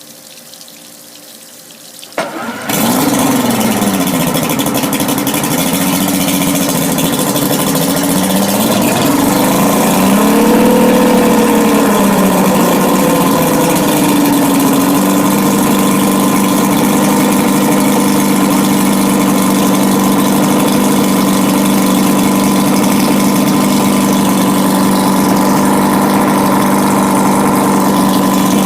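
2004 two-stroke 200 hp V6 outboard motor starting about two seconds in; its speed rises and falls for the next dozen seconds, then settles into a steady idle.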